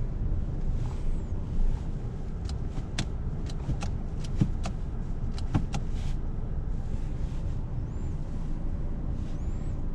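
2011 Volkswagen Golf VI 1.4 TSI driving: a steady low rumble of engine and road noise, with a run of sharp, irregular clicks and ticks in the middle.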